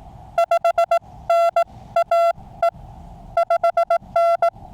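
Morse code (CW) from a QRP Labs QCX mini transceiver: a single steady mid-pitched beep keyed on and off in quick dits and dahs, with faint band hiss between the characters and a short pause about two-thirds of the way in.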